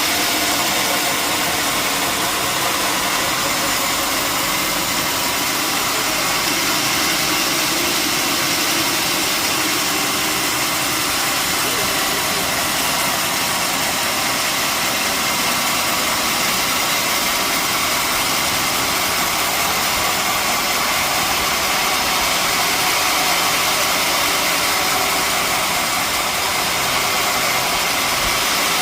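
Sawmill machinery running steadily, a continuous even mechanical noise with no breaks.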